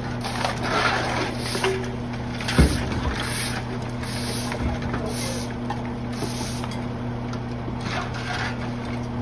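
Refuse collection truck running with a steady mechanical hum, and a single sharp thump about two and a half seconds in.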